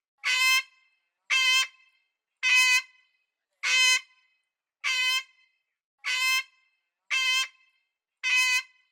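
An animal's short, nasal honking call repeated eight times, evenly spaced about a second apart, each call alike.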